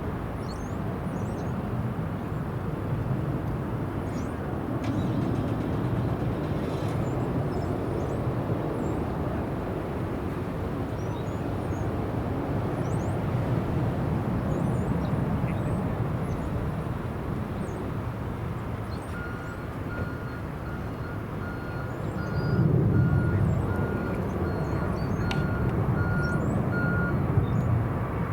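Steady low engine rumble of distant airport and vehicle traffic, swelling briefly about two-thirds of the way in. Over it, a steady electronic beep repeats about once a second for several seconds before stopping near the end, like a vehicle's reversing alarm.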